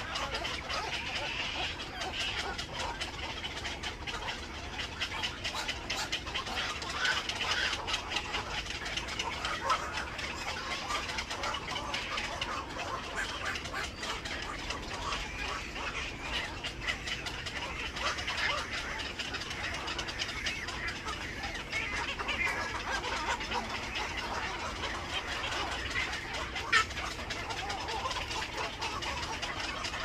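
Birds chattering and clucking continuously, many quick clicking calls over one another, with one sharper, louder click near the end.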